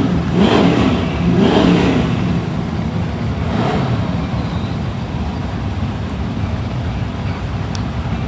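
Drag race car engine rumbling low at idle, revved up and down a few times in the first two seconds.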